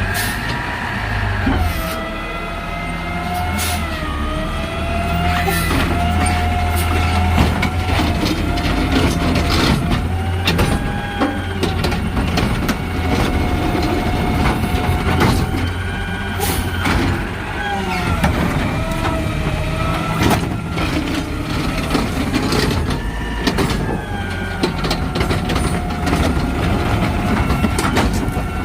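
Garbage truck working: a diesel engine running under a whine that rises and falls in pitch, with scattered clanks and knocks.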